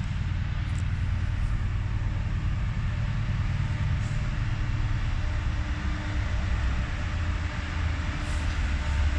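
An approaching diesel train, a British Rail Class 68 diesel-electric locomotive at its head, gives a steady low engine rumble that grows louder near the end.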